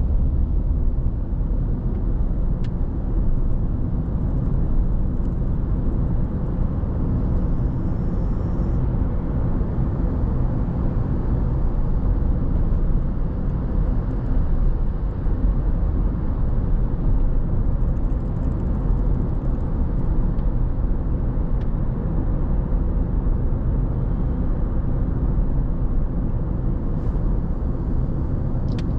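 Steady road noise of a car driving at cruising speed: an even low rumble of tyres and engine.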